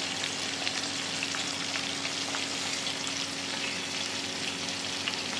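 Cut taro stolons (kochur loti) frying in oil in a wok: a steady sizzle with scattered small pops and crackles. A faint low steady hum runs underneath.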